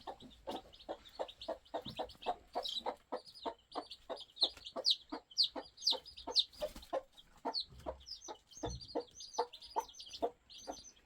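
A hen clucking steadily, about three short clucks a second, with high chick peeps chirping over it.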